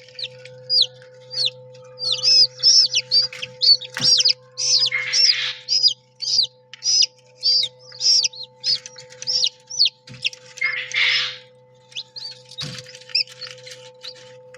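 Chick peeping: short, high, down-curving chirps repeated several times a second, with a pause near the end, over a steady low hum. A couple of brief rustles and two sharp clicks come in between.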